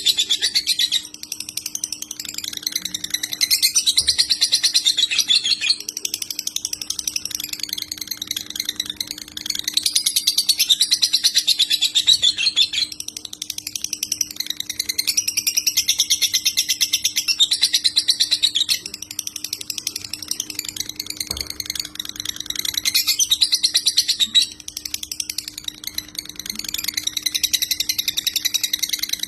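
Lovebird singing the long, rapid, unbroken chattering trill that Indonesian keepers call 'konslet' ngekek, in phrases of several seconds with short breaks between them. A faint steady low hum runs under it.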